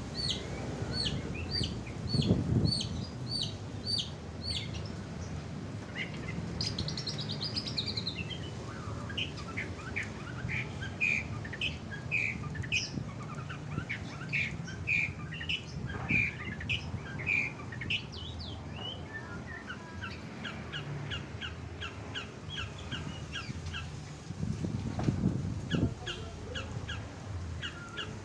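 Long-tailed shrike (cendet) calling: a steady series of sharp high chirps, a brief buzzy trill, then louder varied harsh notes, and finally fast runs of repeated ticking notes. Two dull low thumps come about two seconds in and near the end.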